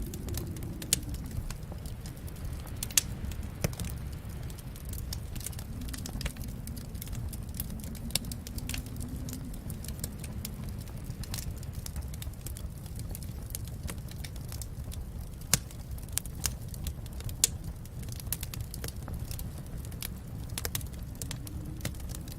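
Wood fire burning in a fireplace: a steady low rumble of the flames with irregular crackles and a few sharper pops and snaps.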